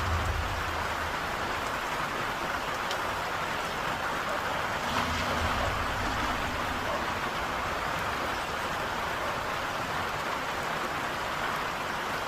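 Heavy rain falling steadily, a dense even hiss, with brief low rumbles on the microphone about a second in and again around five seconds in.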